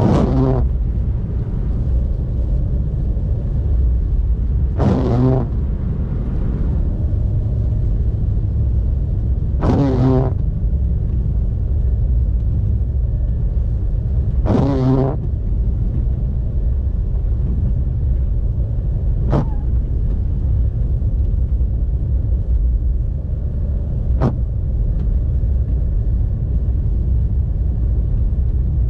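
Steady low road and engine rumble inside a moving car's cabin. Windshield wipers pass about every five seconds on an intermittent setting, clearing snow. Most passes give a brief pitched squeal across the glass; two are only short clicks.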